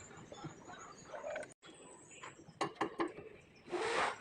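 Scattered clicks and knocks of hand work on metal parts, with a short rasping scrape near the end.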